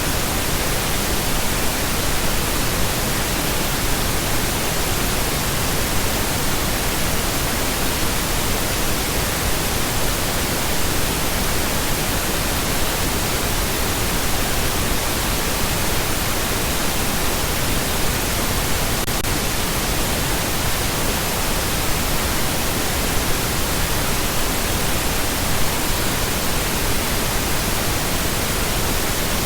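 Steady pink noise: an even, unchanging hiss across the whole range of pitch, with no tones or breaks.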